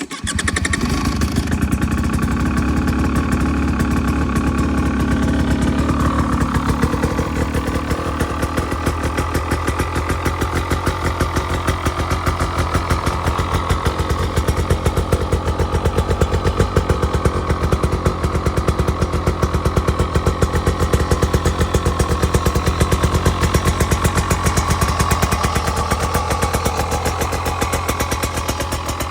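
2025 KTM 300 XC-W Hard Enduro's fuel-injected two-stroke single-cylinder engine starting and then idling, with a steady, rapid run of exhaust pulses. The idle shifts slightly about six seconds in and then holds steady.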